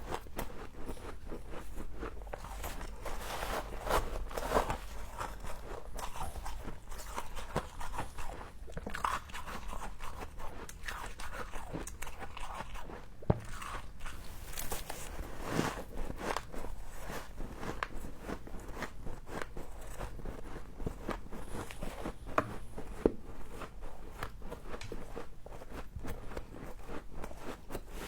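Close-up crunching of frost being bitten and chewed, a steady irregular crackle of icy crunches with a few sharper, louder snaps.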